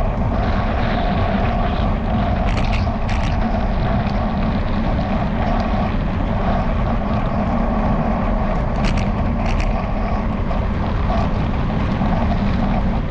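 Steady wind and riding noise on a bicycle-mounted camera, with the camera mount rattling. Two pairs of sharp clicks, about two and a half seconds in and again about nine seconds in.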